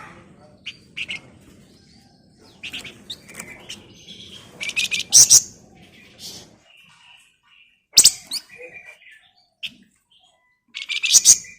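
A flamboyan songbird singing in short, rapid, shrill bursts of chattering song, with about five loud bursts separated by brief pauses. This is the fast, tight 'ngebren' chatter that keepers play to set other birds singing.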